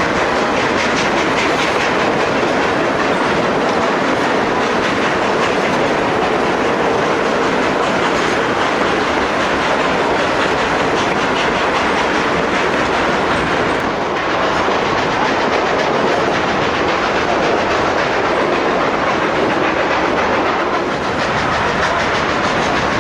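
Durango & Silverton narrow-gauge train running along the track: a steady, loud rolling noise of the cars with rapid fine clatter from the wheels on the rails.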